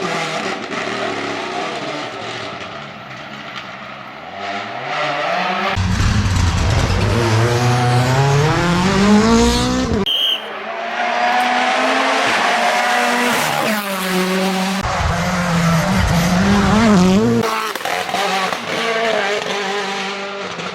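Rally car engine revving hard under acceleration, its pitch climbing steeply for several seconds and then cutting off abruptly about ten seconds in. It then climbs again, with quick dips and rises in pitch near the end as the car shifts and brakes.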